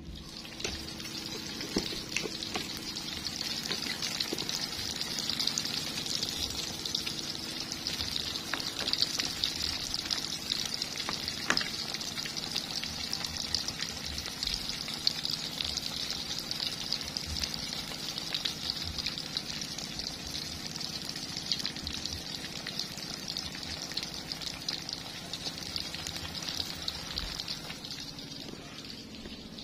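Pieces of tempeh deep-frying in hot oil in a wok: a steady sizzle with many small crackling pops, easing slightly near the end.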